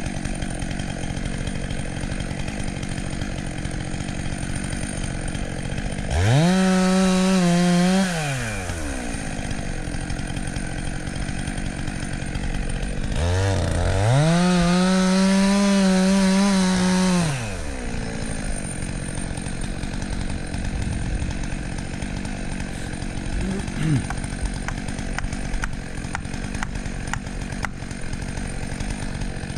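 Two-stroke chainsaw idling, revved up to full throttle twice: briefly about six seconds in, then for about four seconds midway, dropping back to idle each time.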